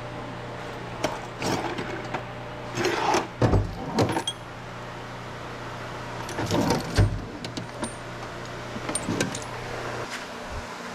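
Irregular clinks, knocks and rattles of metal tools and parts being handled, over a steady low hum.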